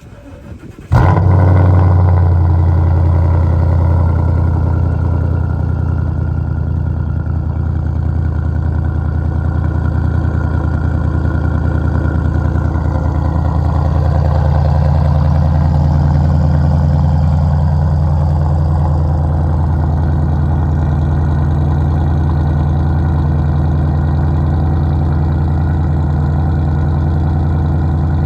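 Ford Mustang GT 2016's 5.0 V8, through a Magnaflow exhaust, starting cold: it catches about a second in with a sudden jump in loudness. It then settles into a steady, low idle.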